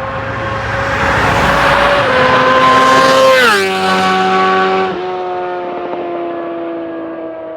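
Inline-four sport motorcycle passing by fast at high revs. The engine's pitch climbs slightly, then drops sharply as it goes past about three and a half seconds in, and it runs on at a lower, steady pitch as it pulls away and fades.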